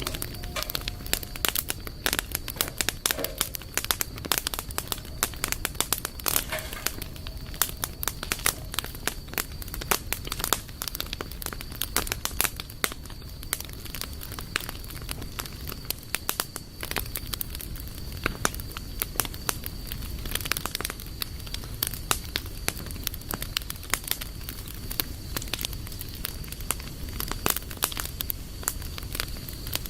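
Wood campfire crackling and popping: many irregular sharp snaps over a steady low rumble of the burning fire. A faint steady high tone runs underneath.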